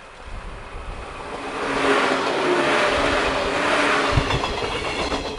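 JR West 115 series electric multiple unit passing close by, its rolling rumble and rail noise building to a peak as the cars go past, with a few steady hum tones running under it. Its wheels knock twice over a rail joint about four seconds in.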